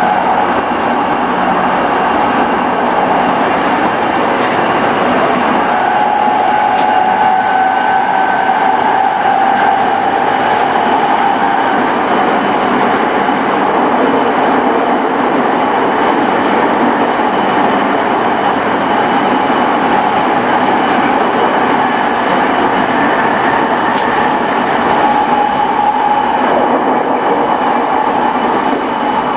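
E217-series electric multiple unit with a Mitsubishi IGBT-VVVF inverter running at a steady pace. Wheels on rail make a continuous loud rumble, with a faint steady high whine over it.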